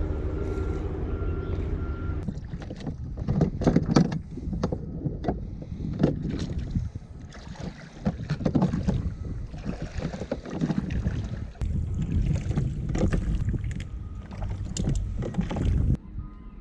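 Small dinghy under way in choppy water: a steady motor hum for about the first two seconds, then uneven splashing and sloshing of water with wind gusting on the microphone.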